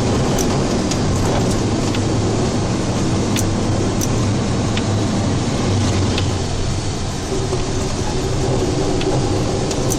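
Steady cab noise of a state plow truck on the move: a constant low engine drone under loud road noise, with a few light ticks scattered through it.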